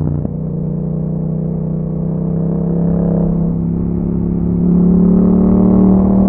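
Yamaha MT-07's parallel-twin engine through an aftermarket Akrapovic exhaust, pulling steadily on the road. It gets a little louder and higher about two-thirds of the way through, then eases near the end.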